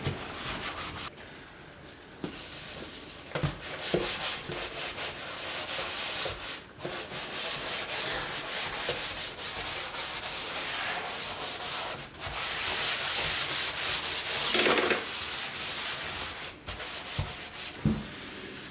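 Scrubbing: rapid back-and-forth rubbing strokes of a cleaning tool on a surface, getting louder about twelve seconds in and easing off about three seconds later, with a few light knocks.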